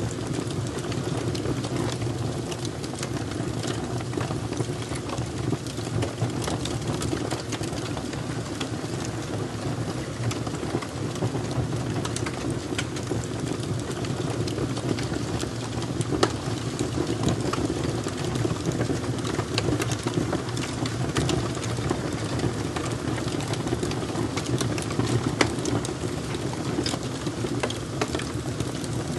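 Wood fire crackling: irregular sharp pops and snaps over a steady low rushing noise.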